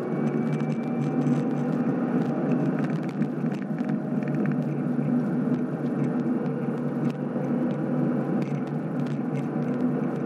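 2016 Cadillac CTS-V's supercharged 6.2-litre V8 running hard at high revs, heard through a camera mount with a loose piece that scrapes and rattles over the engine sound.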